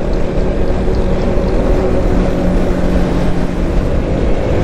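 Motorcycle engine running steadily at road speed, with wind rushing over the rider's microphone.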